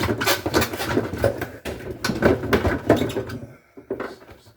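A run of quick clicks, knocks and clatter from plastic refrigerator parts being handled and pulled loose, over a faint low hum. The clatter dies away near the end.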